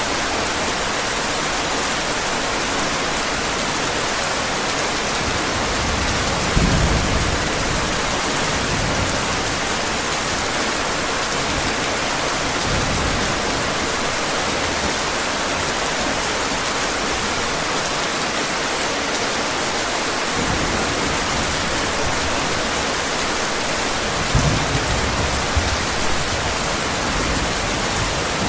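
Heavy rain falling steadily in an even hiss, with two brief low rumbles of thunder, one about a quarter of the way in and one near the end.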